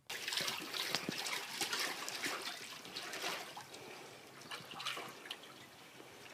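Water splashing and trickling, with many small drips and splashes; busiest in the first few seconds, then dying down to scattered drips.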